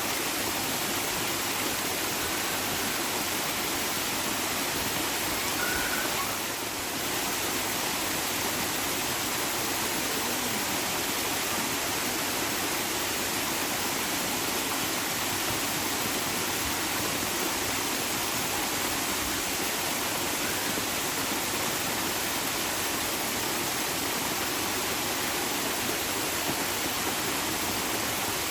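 Steady, even rush of running water, like a stream or small waterfall, with no pauses.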